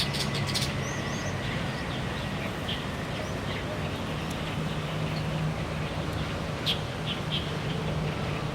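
Light-vented bulbuls giving short, scattered chirps over a steady low hum of background noise, with a quick cluster of clicks right at the start.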